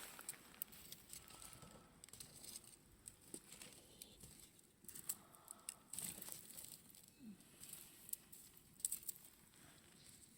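Wood campfire crackling faintly, with scattered sharp pops and ticks at irregular intervals.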